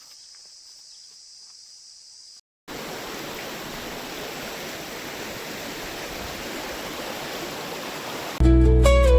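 Steady high insect buzz of the jungle, then after a brief break the even rushing of a stream or small waterfall for about six seconds. Loud acoustic guitar music comes in near the end.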